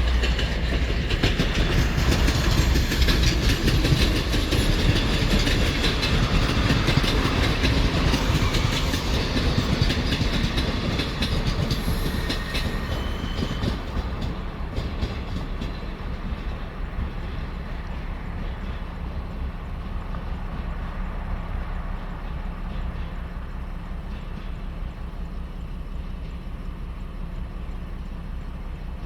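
ER9M electric multiple unit passing on the rails, wheels clattering over the rail joints; the sound is loudest in the first half and fades to a quieter rumble as the train moves away.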